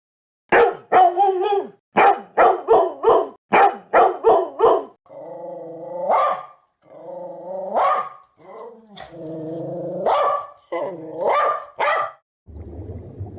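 A dog barking: about a dozen short, sharp barks in quick succession, followed by longer drawn-out yelping calls until near the end.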